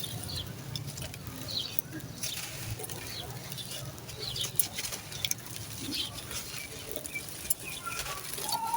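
Dry sand-cement crumbling and dropping onto a floor: scattered crunchy crackles and patter.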